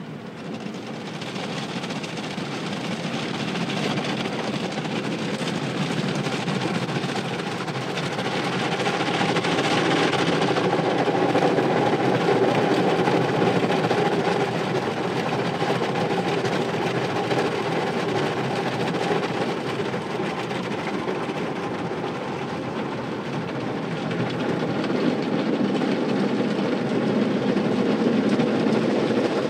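Automatic car wash machinery working over a car: a steady mechanical rumble and rush of water and equipment that swells about a third of the way in and again near the end.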